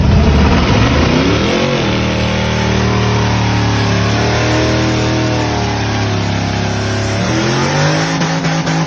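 Mid-mounted 5.7-litre LS V8 in a Subaru Sambar, revving up about a second and a half in, then running at a steady drone. Near the end the revs dip and climb again.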